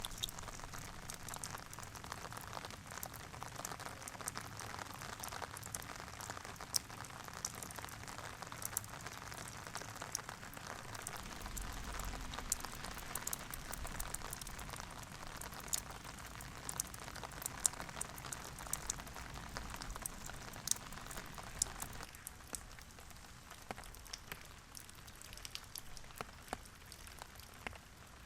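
Steady rain falling, with many individual drops ticking and splashing over an even hiss. The hiss eases a little about three-quarters of the way through.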